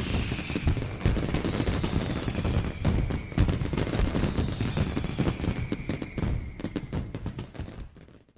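Jet aircraft passing low: a dense crackling roar with a high whine that falls in pitch as each pass goes by. It fades out near the end.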